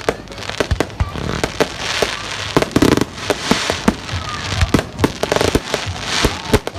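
Fireworks going off: a quick string of sharp bangs, with dense crackling from about one and a half to four seconds in and again near the end.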